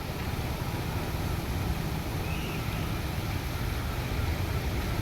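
Steady rushing of a mountain waterfall, a constant noise with a low rumble underneath.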